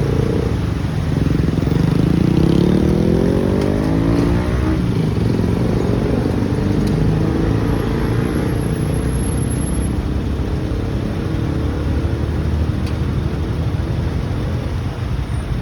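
Motorcycle engine accelerating, its pitch rising for a few seconds and then dropping at a gear change about five seconds in, after which it runs steadily.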